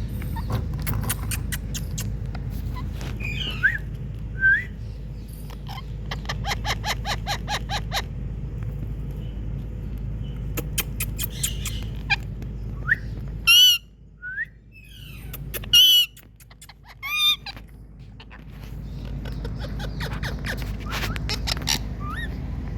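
Indian ringneck parrot making short chirps and clicks, with a quick ticking run partway through and three loud, harsh squawks near the middle. A steady low hum sits underneath and drops out for a few seconds around the squawks.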